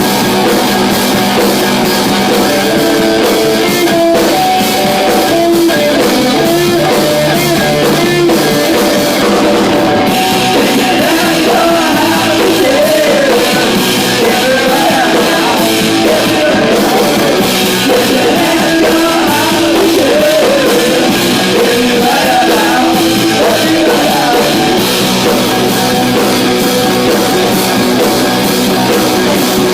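A rock band playing live, with electric guitar, drum kit and a voice singing.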